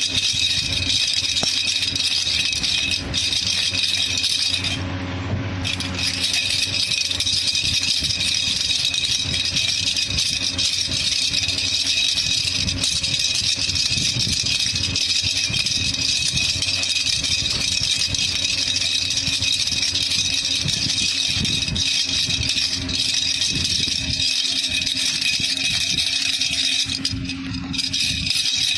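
Baby rattle (jhunjhuna) shaken continuously in a steady rattle, easing briefly about five seconds in and again near the end.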